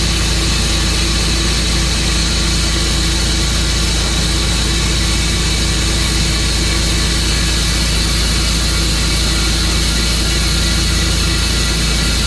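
Tru-Cut sawmill running steadily, its engine and saw making a loud, unchanging hum and whine.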